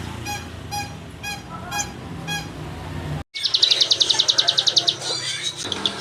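A caged songbird sings a loud, very fast high trill for about two seconds, followed by softer chirps. In the first half, before an abrupt cut, a run of short evenly spaced pitched notes plays at about two a second.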